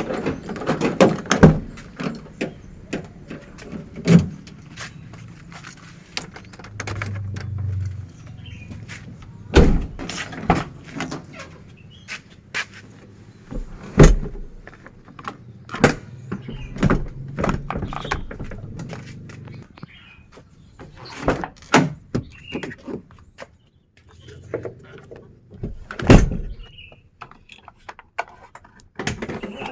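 Irregular knocks, clicks and thuds of doors and gear being handled in and around a campervan, a few much louder bangs among many small clicks.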